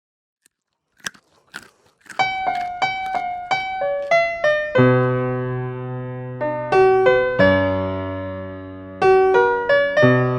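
Piano music: a melody of single notes begins about two seconds in, joined by low held chords a little later. Before it there are a few short faint clicks in near silence.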